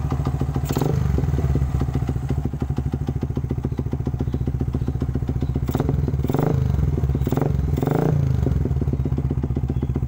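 Yamaha Vixion's single-cylinder four-stroke engine, converted to a carburettor, running through a DBS KWS racing exhaust: a steady idle with a few short throttle blips, most of them in the second half.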